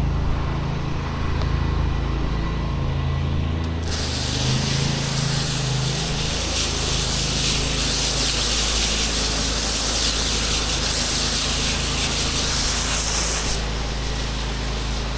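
Pressure washer wand spraying water to rinse down the surface, a loud hiss that starts about four seconds in and cuts off a little before the end. Under it the pressure washer's engine runs steadily.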